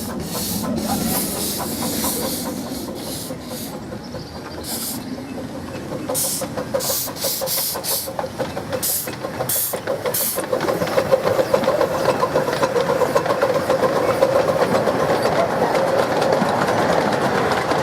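Miniature steam locomotive working along the track, with bursts of steam hiss followed by a steady running sound and wheel clatter that grows louder in the second half.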